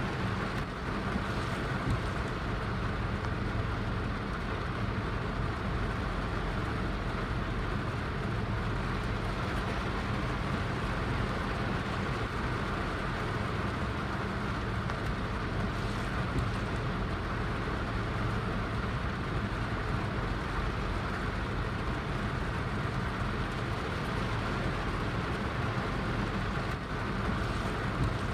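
Steady heavy rain: an even, unbroken hiss with a low rumble underneath.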